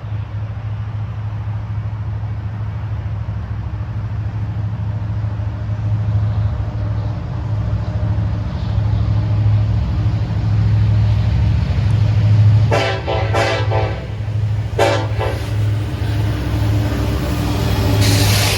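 Freight train's diesel locomotives approaching with a steady low rumble that grows louder. The locomotive horn sounds three short blasts about two-thirds of the way in, two close together and a third about a second later, and a rush of noise builds near the end as the train draws close.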